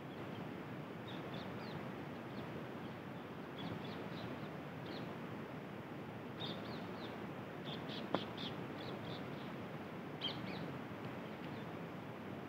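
Small birds chirping: short runs of high chirps come and go several times over a steady outdoor hiss. A single sharp click about eight seconds in.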